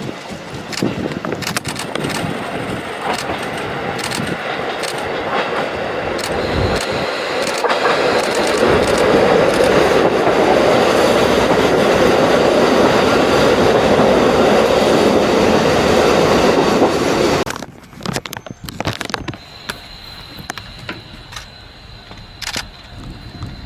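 A train passing by trackside, its running noise building up to a loud peak with clicking from the wheels, then stopping abruptly about three-quarters of the way through. After that there is a much quieter background with a faint steady high tone.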